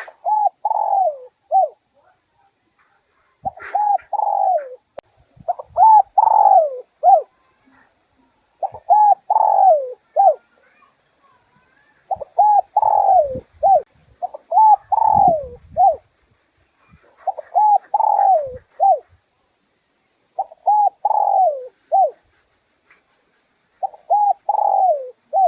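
Spotted dove cooing: nine phrases of several rising-and-falling coos, each ending in a short clipped note, repeated about every three seconds, with brief silences between.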